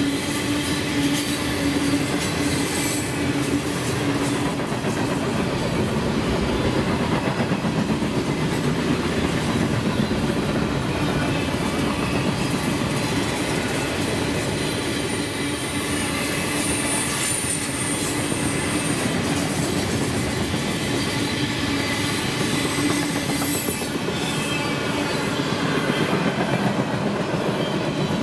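Freight cars of a mixed train rolling past: steady wheel rumble and clatter on the rails. A brief high wheel squeal comes about halfway through.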